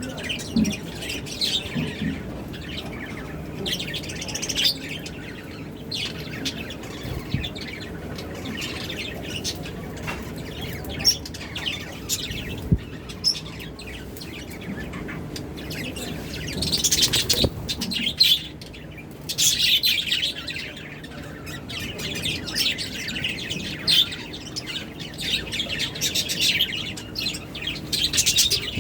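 Lovebirds chirping, a steady stream of rapid high chirps from several birds, with louder bouts of excited chirping past the middle.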